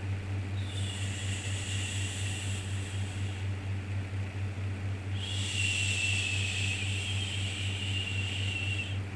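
Repeated 'shhh' shushing sound for soothing a baby, two long shushes with a pause between them, over a steady low hum.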